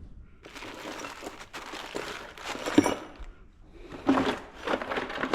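Rustling and crinkling of someone rummaging through parts and packaging in search of a bolt, with a sharp clink a little under three seconds in and more handling noise near the end.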